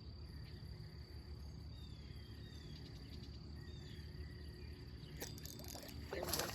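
Steady high trilling of insects, crickets by the sound, over a low outdoor rumble, with a few short, high falling chirps. Near the end come a few clicks and a brief, louder noisy burst.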